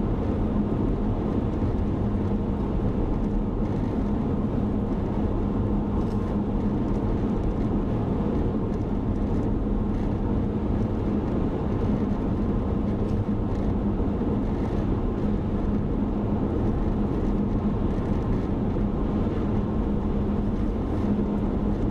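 Steady road and engine noise heard from inside a moving car's cabin, with an even low hum running under the tyre rumble.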